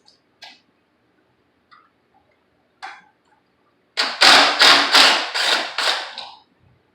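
A few faint clicks, then a quick run of about six sharp metallic strikes, a little over two a second, each ringing briefly: metal parts being struck while the pressure washer is taken apart.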